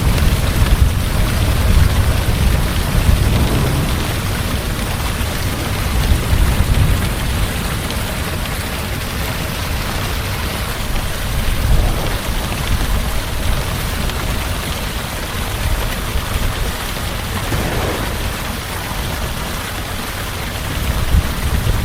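Heavy rain falling steadily, with a low rumble of distant thunder underneath that swells and eases several times.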